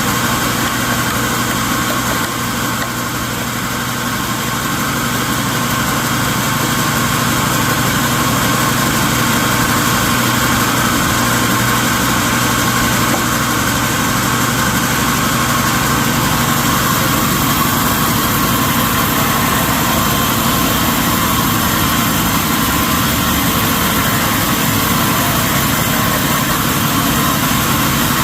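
Sawmill machinery running steadily, a dense mechanical drone that dips slightly a few seconds in and then holds level.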